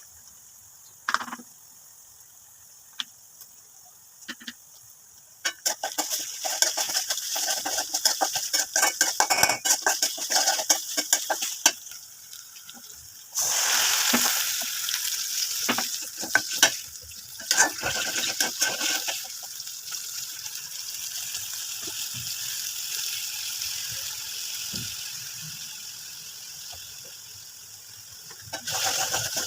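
Chicken frying in a hot pan, sizzling under the rapid clatter of a spatula stirring and scraping. About halfway through, a much louder sizzle starts suddenly and slowly dies away.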